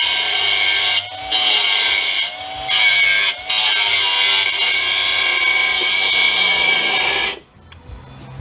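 A handheld power tool runs steadily after spinning up, cutting off copper wires. It stops three times briefly and shuts off about seven seconds in.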